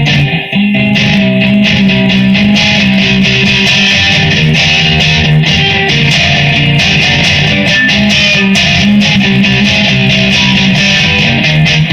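Electric guitar strumming sustained chords, playing an instrumental passage with no singing, recorded on a phone.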